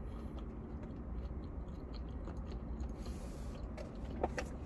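Faint chewing of fast-food fries and sandwich, with small clicks, over a low steady hum. A brief hiss comes about three seconds in.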